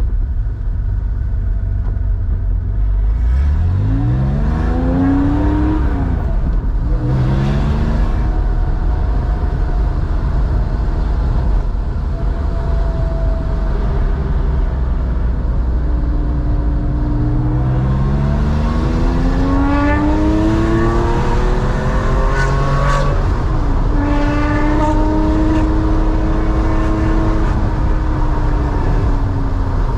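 Air-cooled flat-six of a 1987 Porsche 911 enlarged to 3.4 litres, exhaling through a two-in-one-out muffler, pulling up through the gears under acceleration. The note climbs and drops at each upshift, twice in the first third and several times more in the second half, with steady cruising stretches between and near the end.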